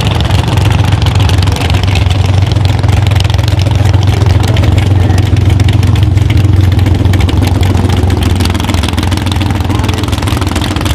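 Loud, high-powered competition car engine running steadily at a rough, lumpy idle, with no big revs or acceleration.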